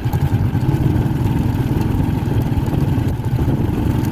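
Steady low engine and road rumble of a vehicle being driven, heard from inside.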